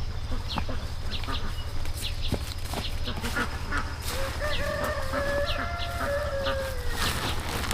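A rooster crowing once, a wavering call of about three seconds starting about halfway through, with short high bird chirps scattered around it and a steady low hum underneath.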